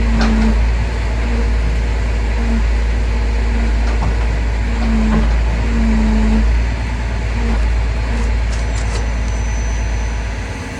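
Crane truck's engine running with a steady low rumble, a humming tone coming and going several times over it.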